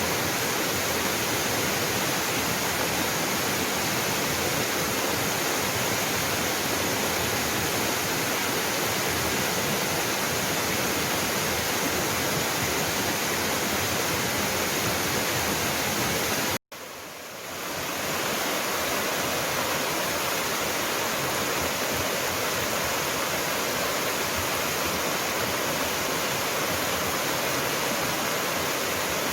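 Jangsan Waterfall's water pouring down in a steady, full rush of noise. About 17 seconds in the sound cuts out for an instant, comes back softer, and builds back to full within about a second.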